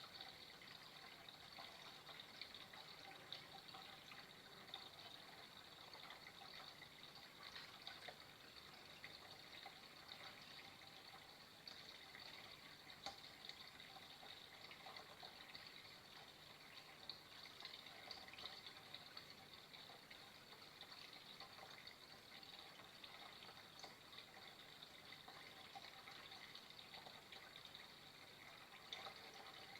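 Faint, steady trickle of running water, with small splashes and drips throughout.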